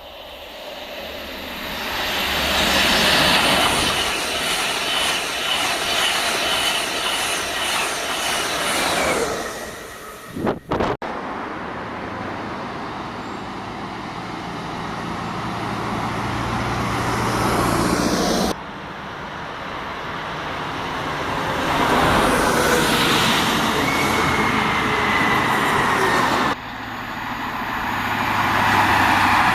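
Trains running past at close range, loud and swelling up and down, heard in several short stretches that cut off suddenly. Thin high tones slowly falling in pitch sound over the running a couple of times.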